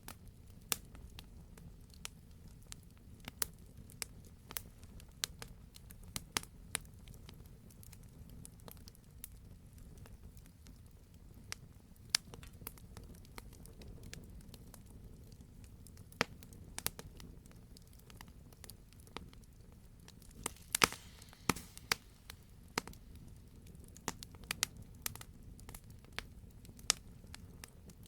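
Wood fire crackling: irregular sharp pops and snaps over a steady low rumble of burning, with a busier run of pops about two-thirds of the way through.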